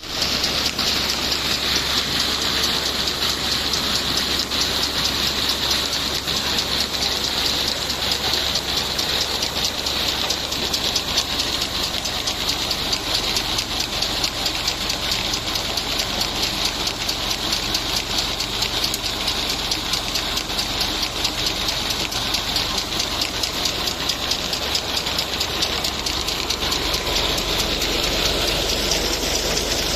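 Tractor diesel engine running steadily under load, driving a new tubewell's pump, with a fast even knock and a steady rushing hiss.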